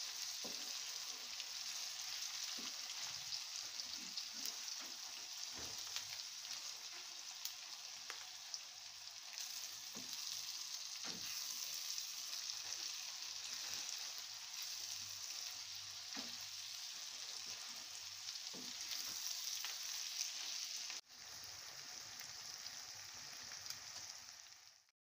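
Okra, onion and tomato masala sizzling steadily in a wok, with a wooden spatula stirring and knocking against the pan now and then. The sizzle breaks off briefly near the end.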